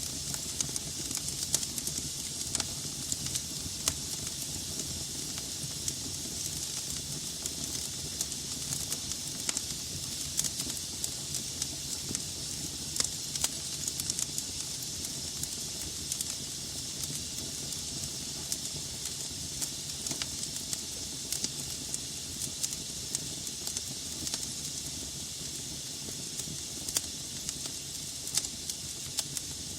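Wood fire burning in a fireplace: a steady hiss with irregular sharp crackles and pops from the burning logs, over a low rumble of the flames.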